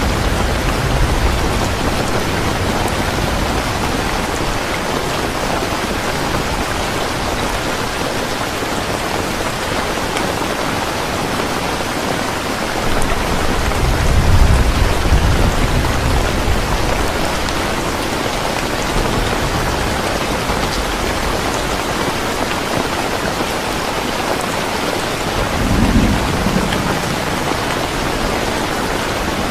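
Steady, heavy rain falling, with low rolls of distant thunder, the biggest about halfway through and a shorter one near the end.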